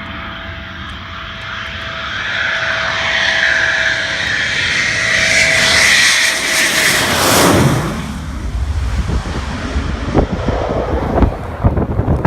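Military fast jet flying past, its engine noise building to a peak and then dropping in pitch as it goes by about seven and a half seconds in. After that it fades behind gusts of wind on the microphone.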